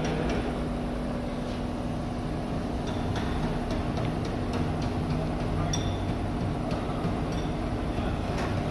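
A steady mechanical hum with a constant low drone, dotted with a few light clicks and taps.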